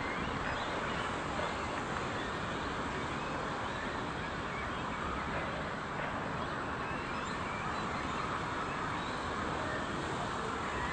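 Steady outdoor ambience, an even background hiss with faint, scattered bird calls.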